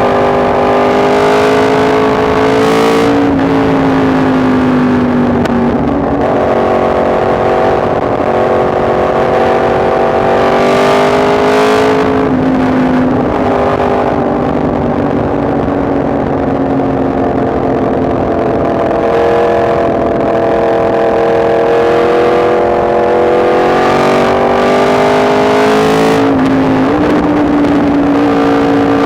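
Yamaha MT-10 SP's crossplane inline-four engine running on the move at fairly steady revs. Its pitch drifts slowly up and down, with a few sudden steps in pitch along the way.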